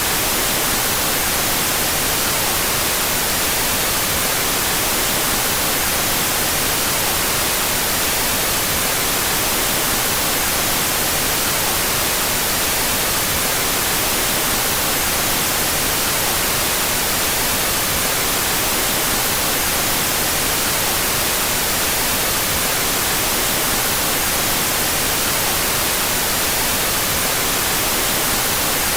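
Steady synthetic white noise, an even hiss with no change, played with its stereo channels out of phase.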